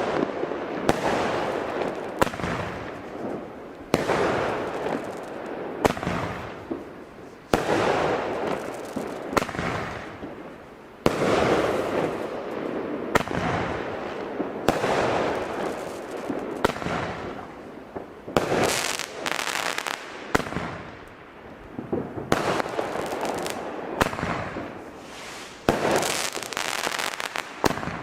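Consumer firework battery firing shot after shot: a sharp bang every second or two, each followed by a fading crackling tail, with quicker clusters of bangs about two-thirds of the way in and near the end.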